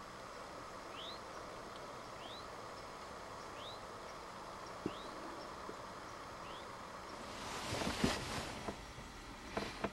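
A bird calling with short rising chirps, five of them about one every second and a bit, over a steady outdoor hiss. Near the end comes a rustling swell and a few sharp clicks.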